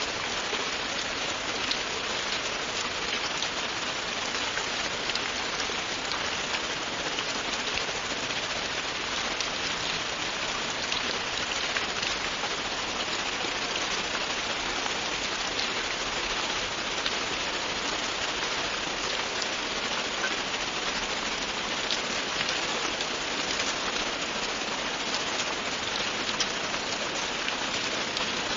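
Steady, continuous rain falling on a surface, a dense even hiss with many fine drop ticks, without breaks.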